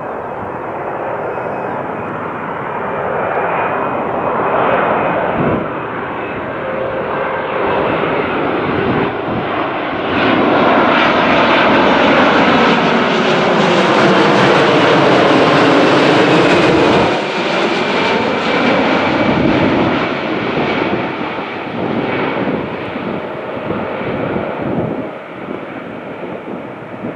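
Jet airliner passing low overhead: its engine noise builds, is loudest about halfway through, then drops away and fades.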